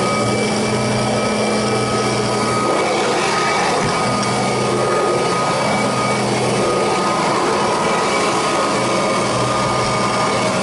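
Kirby Heritage II upright vacuum cleaner running steadily: a loud, even rush of air with a constant high whine.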